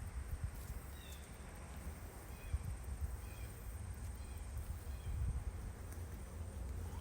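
Wind buffeting the microphone over the steady rush of flowing river water, with a few faint, short bird chirps scattered through.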